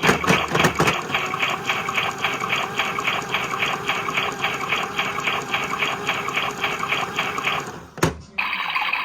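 Small washing machine running, a rhythmic whirring pulse about four times a second with water sloshing, stopping with a click near the end.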